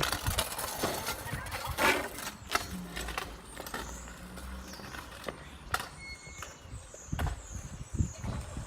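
Kick scooter riding over pavement, its wheels rattling with scattered sharp clacks and knocks, busiest in the first couple of seconds and again near the end.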